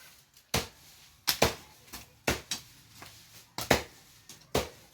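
Jembe hand hoe chopping into soil and weeds: repeated sharp strikes, about one a second, several coming in quick pairs.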